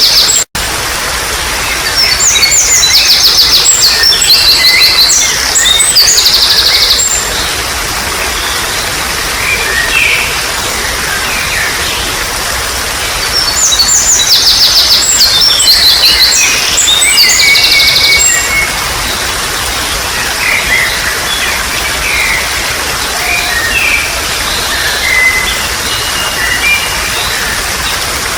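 Steady trickle of flowing water with birds singing: two loud bouts of rapid, high trilled song, one starting about two seconds in and another about halfway through, with softer chirps between them. The sound cuts out for an instant just after the start.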